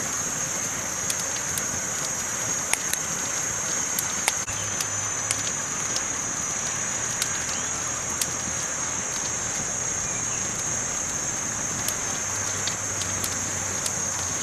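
Campfire crackling: scattered sharp pops and snaps at irregular intervals over a steady high hiss.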